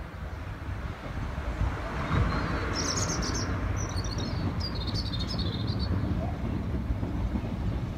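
A two-car diesel passenger train running across a stone viaduct, a steady low rumble. A small bird chirps a quick run of high notes from about three to six seconds in.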